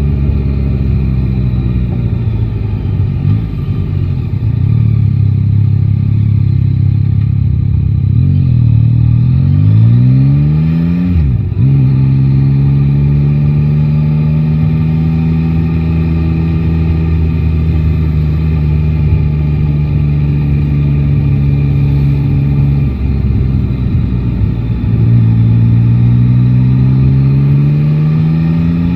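Yamaha Tracer 9 GT's three-cylinder engine under way, heard from the rider's seat. The revs climb through a gear change about ten seconds in and then hold steady. They drop about 23 seconds in and climb again near the end.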